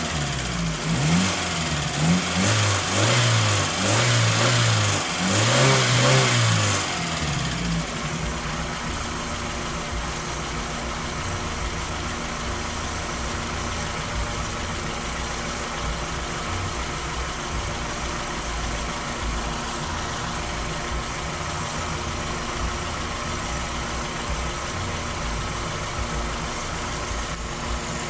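Toyota Corolla 2E four-cylinder engine revved in a series of quick throttle blips for about seven seconds, then dropping to a steady idle.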